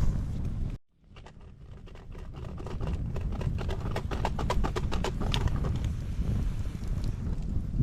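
Campfire crackling: a run of irregular sharp pops and snaps over a steady low rumble. Just under a second in, the sound cuts out briefly and fades back in.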